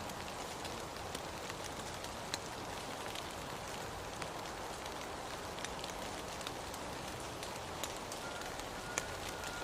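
Steady rainfall, an even hiss with scattered sharp drop ticks throughout. A faint steady high tone joins near the end.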